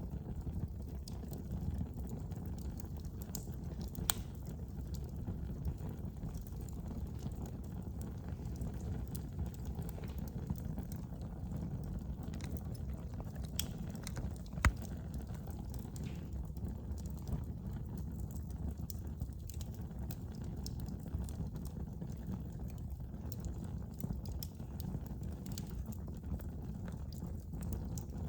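Wood fire burning in a fireplace: a steady low roar of the flames with scattered small crackles and occasional sharp pops, the loudest about fifteen seconds in.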